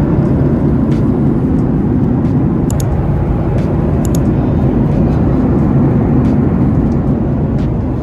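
Steady, loud rushing noise of an airliner cabin in flight: engine and airflow noise heard from inside the passenger cabin, with a few faint clicks.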